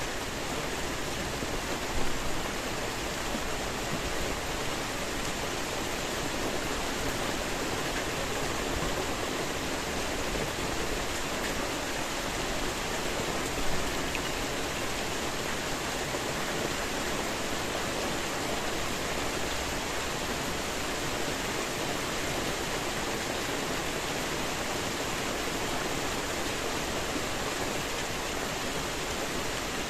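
Steady rainfall, a dense, even hiss, with two brief louder hits, one about two seconds in and one near the middle.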